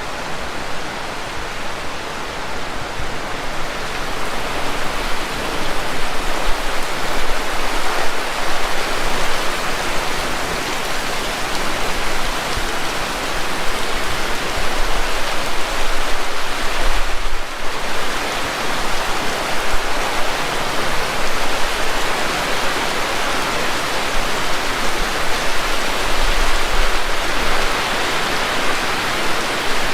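Heavy rain falling in a dense, steady hiss, with a low rumble of wind at times. It eases briefly about seventeen seconds in.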